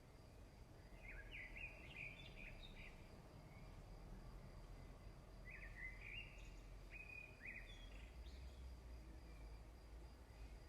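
Faint bird chirping over a steady low background noise, in two short bouts of quick chirps, the first about a second in and the second from about five and a half to eight seconds in.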